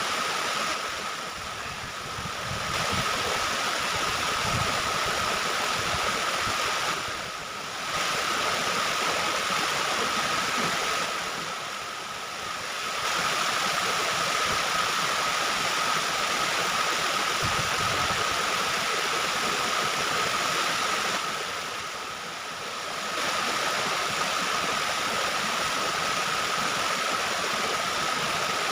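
Waterfall: a steady rush of falling water, with a faint steady tone running through it and the level dipping briefly a few times.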